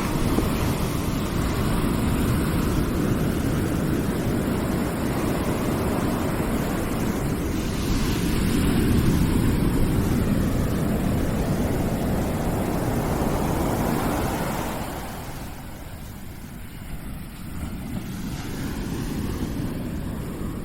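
Continuous rushing noise, heaviest in the low end, swelling and easing and dropping quieter about fifteen seconds in.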